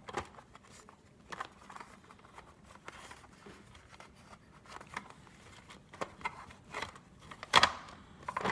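Scattered clicks and knocks of a Big Mouth Billy Bass's plastic housing, parts and screws being handled during reassembly, with the loudest knock near the end.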